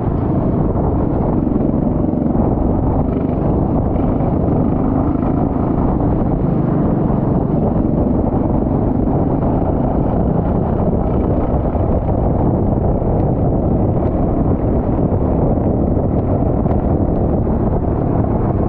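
Go-kart engine running steadily, mixed with heavy wind noise on the microphone.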